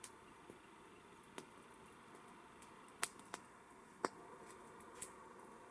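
Wood campfire crackling: sparse, irregular sharp pops and snaps, a few close together about three seconds in, over a faint steady hiss.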